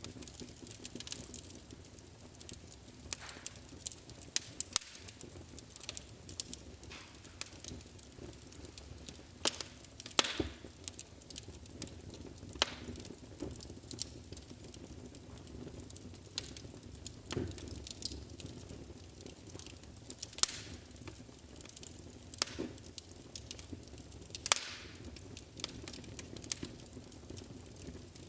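Wood fire burning in a fireplace, crackling with irregular sharp pops, a few of them louder, over a low steady hiss of the flames.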